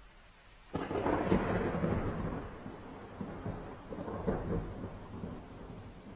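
Thunder: a sudden crack about a second in, then rumbling that fades unevenly over several seconds.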